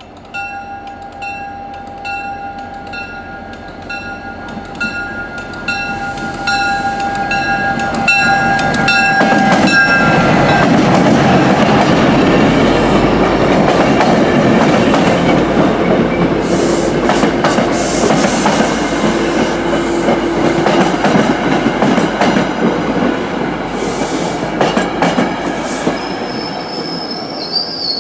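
A crossing bell rings about twice a second while an MBTA commuter train approaches. The train then passes with a loud rumble and wheels clattering over the rail joints. A high wheel squeal starts near the end.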